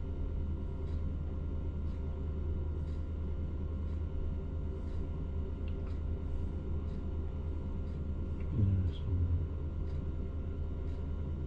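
Truck crane's diesel engine running steadily as a low rumble, with faint ticks about once a second and a brief louder sound about two-thirds of the way in.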